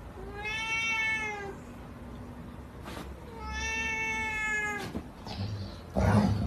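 A cat meowing: two long, drawn-out meows about three seconds apart, each rising slightly and then falling. Near the end comes a short, louder burst of noise.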